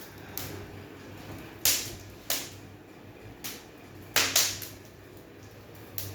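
Wood fire crackling in a newly lit fireplace: about half a dozen sharp pops and snaps at irregular intervals, the loudest pair about four seconds in.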